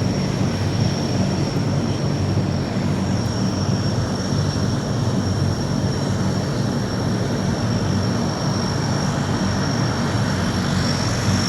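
Aircraft engines running steadily: a loud, even rumble with a steady high whine over it.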